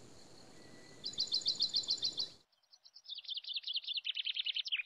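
A songbird chirping in quick trilled runs of about eight sharp high notes a second: one run about a second in, and another starting near the three-second mark.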